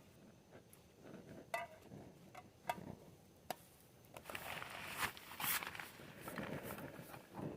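Scattered light clicks and taps, with a stretch of rustling around the middle, like things being handled at close range.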